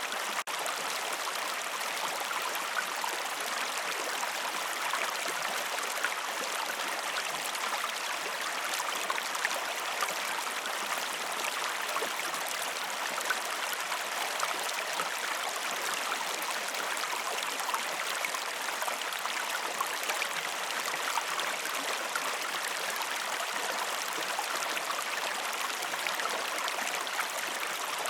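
River water flowing steadily, an even, unbroken stream sound with no music, with a momentary dip in level just after the start.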